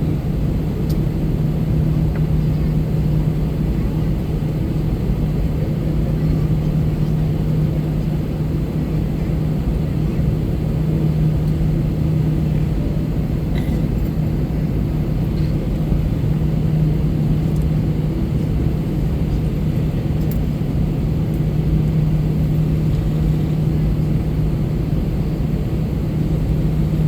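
Airbus A321-200's jet engines heard inside the passenger cabin: a steady drone with a constant low hum.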